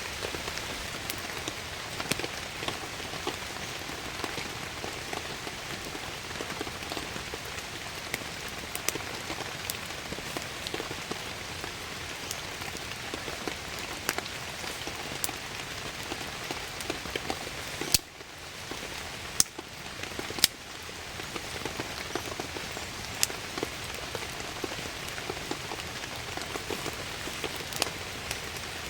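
Steady heavy rain with many sharp drop ticks scattered through it. About two-thirds of the way in, three louder knocks come a second or so apart and the rain sound briefly drops away before building back.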